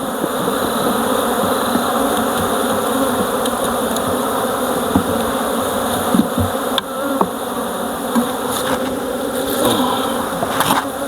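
Dense, steady buzzing of a honeybee colony in an open hive, with single bees now and then whining close past. A few light knocks come in the second half.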